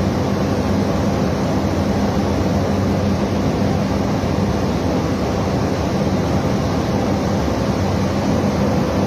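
Small aircraft's engine and propeller running steadily at an even pitch, with a constant low hum under broad noise.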